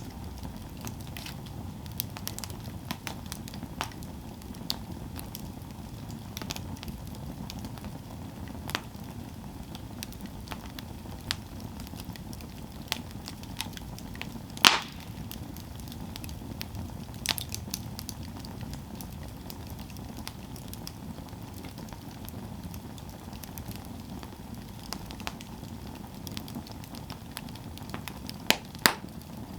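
Wood campfire burning with a steady low rumble and scattered sharp crackles and pops, one louder pop about halfway through and two more near the end.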